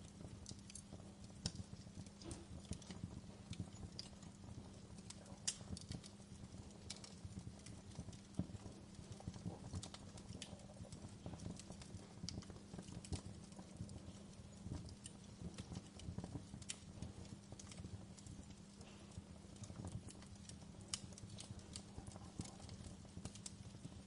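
Wood fire in a fireplace crackling, with irregular pops and snaps scattered over a low steady rumble.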